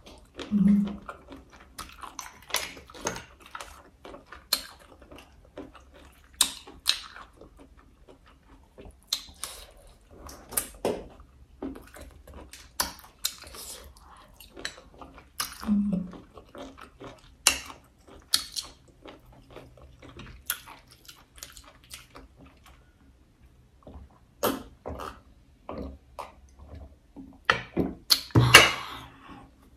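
Close-miked chewing and mouth sounds of a person eating braised crab and boiled snails, with irregular wet clicks and smacks. A short low hum comes about a second in and again midway. A louder burst of clicks comes near the end.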